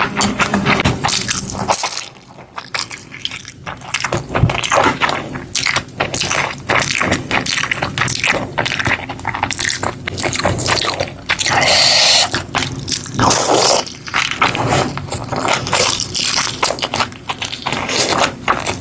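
Close-miked eating: food being bitten and chewed, with many quick crunches and crackles and a short scraping stretch.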